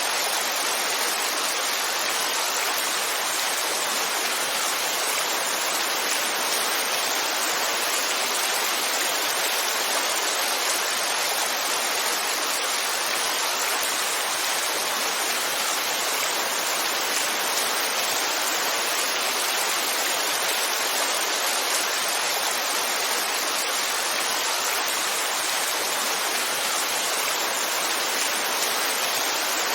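Heavy rain falling as a steady, even rush of noise, with no single drops, thunder or changes standing out.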